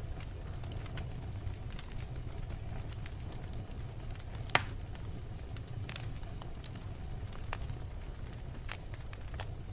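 Wood fire burning in a fireplace: a steady low rumble of the flames with scattered crackles from the logs, and one sharp, louder pop about halfway through.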